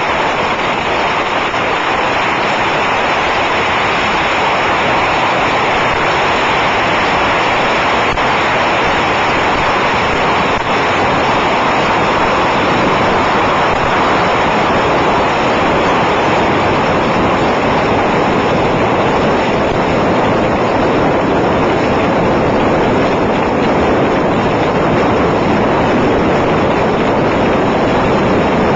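Yanshui beehive fireworks (fengpao): racks of bottle rockets firing en masse, a loud, unbroken hiss and crackle with no pause.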